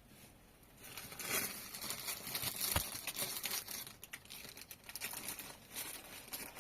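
Irregular crinkling and rustling, like material being handled, starting about a second in and going on in uneven bursts.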